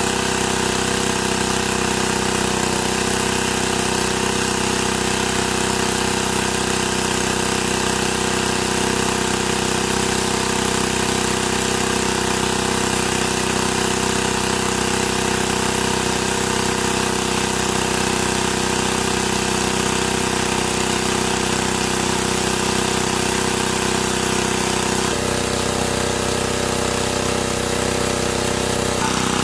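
A motor running steadily, a constant drone made of several steady tones with a shift in tone near the end.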